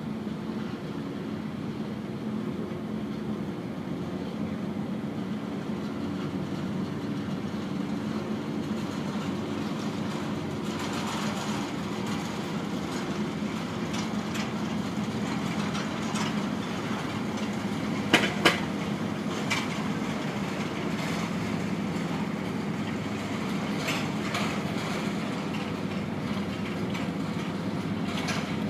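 Steady low mechanical rumble of a moving vehicle, with scattered clicks and a sharp double knock about two-thirds of the way through.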